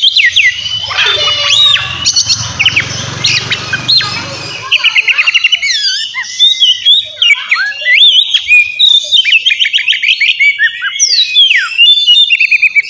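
Oriental magpie-robin (kacer) singing loudly in a varied song of clear whistles, slurred glides and fast rattling runs of repeated notes, with a sharp falling whistle near the end. A low hum runs under the first few seconds and stops suddenly.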